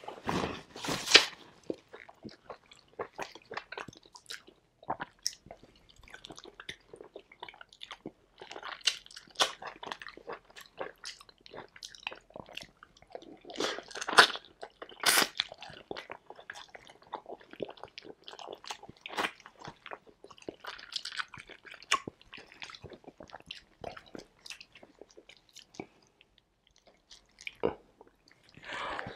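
Close-miked chewing of beef chunks from a beef soup: an irregular run of mouth clicks and smacks with a few louder bites, about a second in and around the middle.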